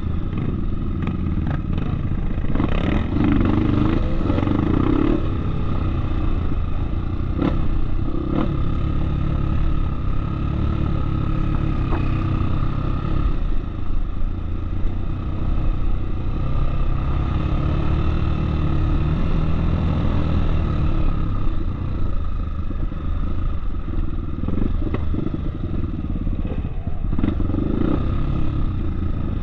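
Off-road trail motorcycle engine running steadily while riding, with scattered clattering knocks from the bike over rough ground.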